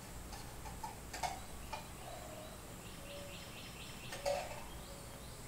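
Quiet ambience with scattered short bird chirps and sharp ticks; the two loudest come about a second in and just past four seconds.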